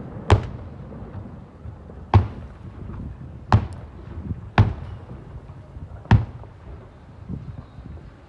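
Fireworks bursting overhead: about five separate sharp bangs, spaced a second or two apart, each followed by a low rumble.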